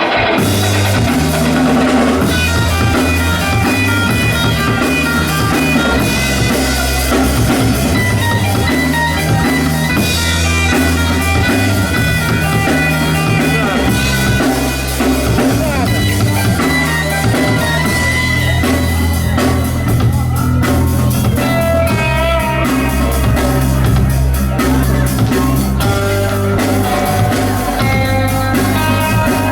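Rock band playing live, with drum kit, guitars and bass.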